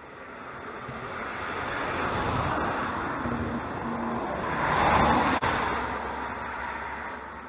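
A road vehicle passing by: road noise swells to a peak about five seconds in, then fades away.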